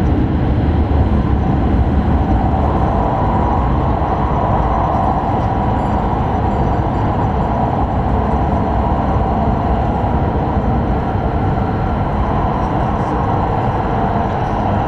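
E5 series Shinkansen running, heard from inside the passenger cabin: a steady, loud rumble and rush of running noise that holds even throughout.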